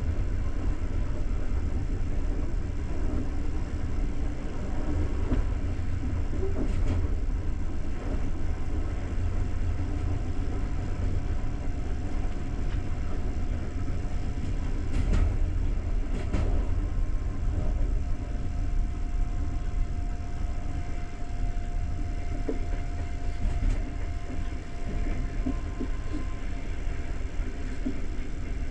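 Passenger coach running along the track, heard from inside: a steady low rumble of wheels on rails, with a few sharp knocks and a faint thin whine that comes and goes.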